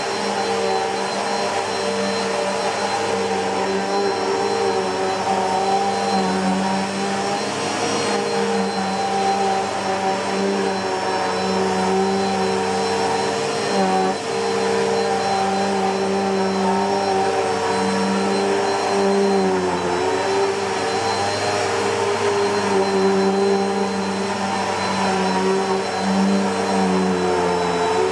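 Bissell PowerForce Helix Turbo (2190) bagless upright vacuum cleaner running steadily: a motor hum with a thin high whine, its pitch sagging briefly twice, about halfway and again a little later.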